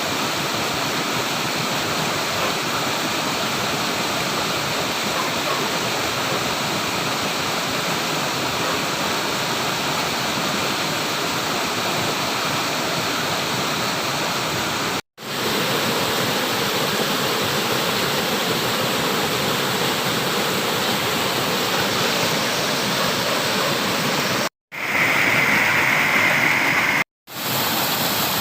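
Steady rushing of flowing water. It cuts out to silence three times for a moment, once about halfway and twice near the end, and the water sounds a little louder and brighter between the last two cuts.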